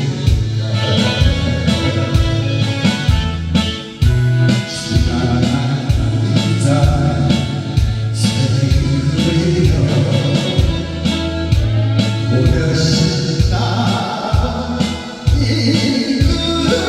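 Karaoke backing track of a Korean trot ballad, with a steady, evenly pulsing bass beat under melodic accompaniment.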